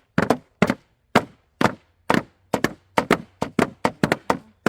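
Hammers pounding flowers and leaves through freezer paper onto a hard surface: a quick, uneven run of sharp blows, about two to four a second, to press the plant colours into the paper.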